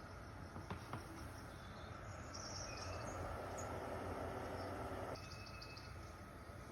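Faint background ambience with short, high chirps like insects or birds. There are two small clicks about a second in, and a soft hiss that cuts off suddenly about five seconds in.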